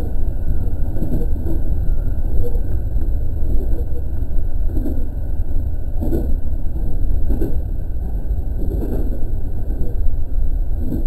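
Running noise of an E217 series electric train heard from inside the front car: a steady low rumble of wheels on track with occasional louder thumps.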